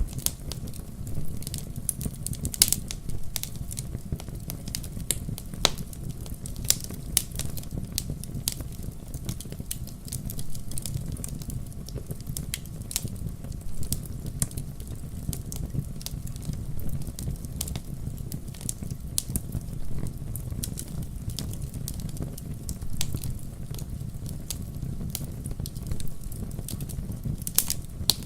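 Wood fire in a fireplace crackling and popping irregularly over a steady low rumble of the flames, with a few sharper pops.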